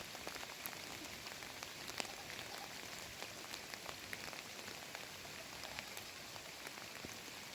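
Steady rainfall: an even hiss of heavy rain with scattered sharp drop ticks.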